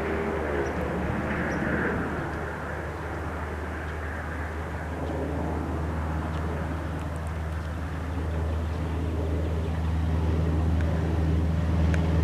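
Cessna 172 Skyhawk's four-cylinder piston engine and propeller droning steadily, dipping a little about three seconds in and growing louder toward the end.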